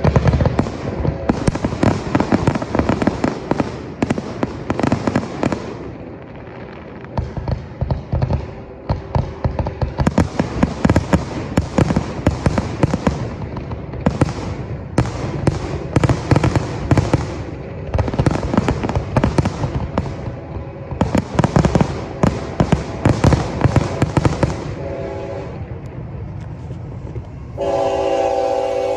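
Fireworks going off in rapid bangs and crackles, with a train horn blowing over them: a short blast near the end, then a long, loud blast.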